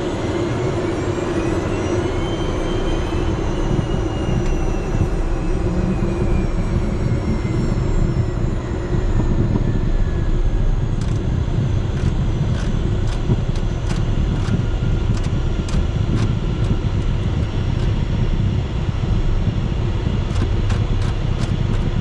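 Steady cabin noise inside a Cessna Citation Mustang jet in flight: a low rumble and rush of airflow and engine noise. A faint tone rises and then falls over the first few seconds, and a scatter of light clicks comes in over the second half.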